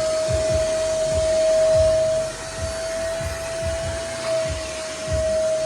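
Nunix wet & dry vacuum cleaner motor running at full speed: a steady high whine over a rush of air, with irregular low buffeting underneath.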